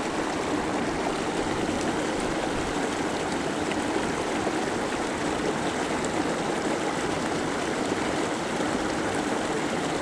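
A creek's running water, a steady, even rush that the angler earlier called kind of loud.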